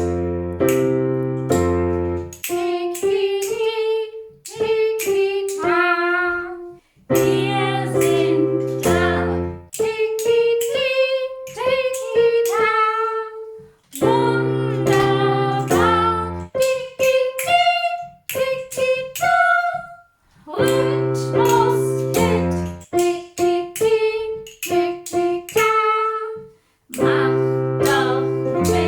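Music: a woman singing a melody over sustained keyboard chords, in phrases with short breaks between them.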